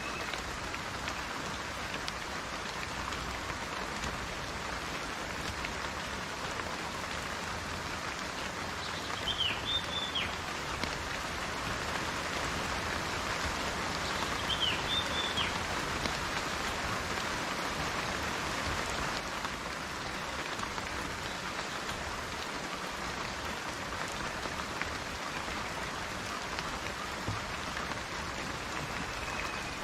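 Steady rain falling, an even hiss of drops. Twice, about nine and fourteen seconds in, a short high chirp rises above it.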